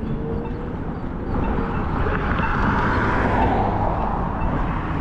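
Wind buffeting a GoPro's microphone during an electric scooter ride, a constant low rumble, with a broad rushing hiss that swells up about a second and a half in and holds.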